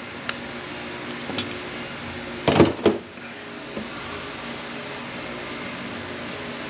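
A steady machine hum, with a few light clicks and a brief rushing burst of noise lasting about half a second, some two and a half seconds in.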